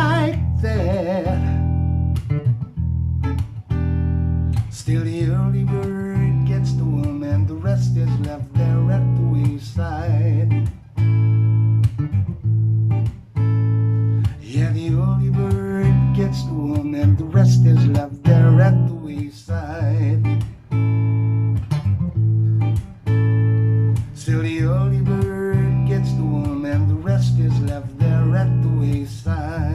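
Instrumental passage on a fingerpicked Godin Multiac Jazz guitar played through a Vypyr VIP-2 amp in acoustic mode, with a Boss Poly Octave (OC-20G) pedal adding a deep octave-down bass line from the two lowest strings. A last sung word is held with vibrato in the first second, then guitar alone.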